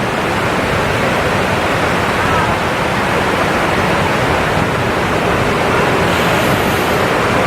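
Steady rushing of water pouring down the walls of the 9/11 Memorial reflecting pools, an even, unbroken roar of falling water.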